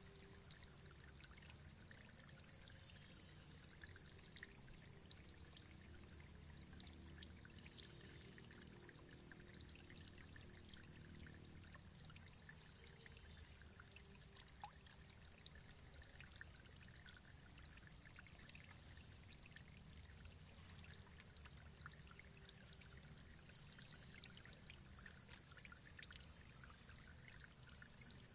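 Faint, steady running water, a small stream or trickle with many tiny splashes and drips.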